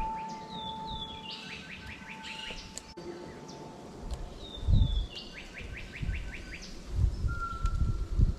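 A songbird singing the same phrase twice: a few high whistled notes, then a quick run of sweeping notes. Low thumps of wind or handling noise come in the second half.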